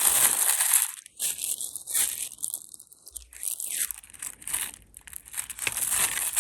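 Rustling and crinkling from rummaging by hand through a jumble of costume jewelry, in irregular bursts about a second long.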